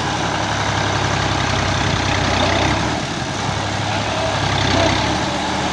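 Fiat 480 tractor's diesel engine running steadily with a low drone.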